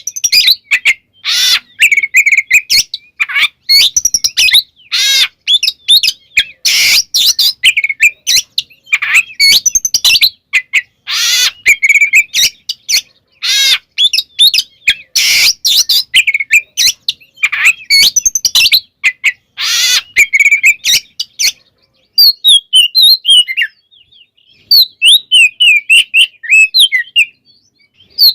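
Oriental magpie-robin singing a fast, varied song of loud, harsh notes and whistles. From about 22 s on it shifts to quicker, thinner chirps.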